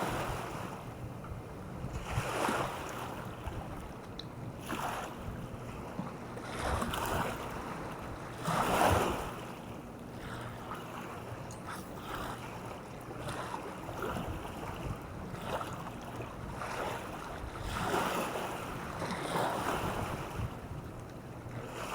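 Small waves washing onto the shore in repeated surges every couple of seconds, the biggest about nine seconds in, with wind rumbling on the microphone.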